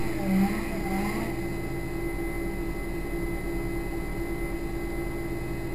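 Honda Integra competition car's four-cylinder engine idling steadily, heard from inside the stripped cabin.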